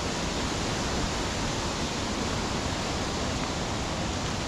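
Waterfall: the steady rush of falling water, an even hiss with no breaks.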